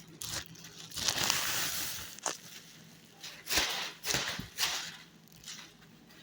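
Black plastic trash bag rustling in bursts while refrigerator contents are taken out and tossed into it, with a few sharp knocks.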